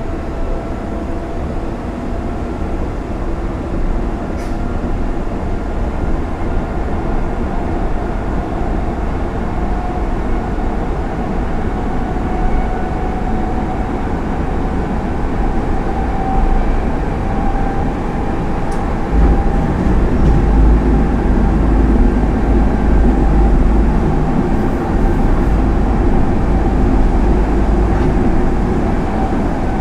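Hanshin Line express train heard from inside the carriage while running: a steady rumble of wheels on rail with a thin whine above it. The rumble grows louder and deeper about two-thirds of the way through.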